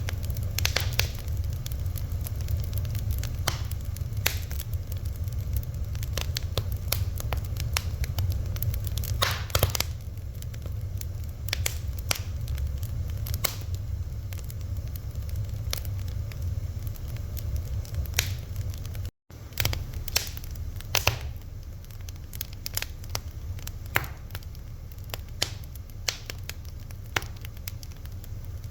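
Wood fire crackling: irregular sharp pops and snaps over a steady low rumble. The sound cuts out completely for a split second about two-thirds of the way through.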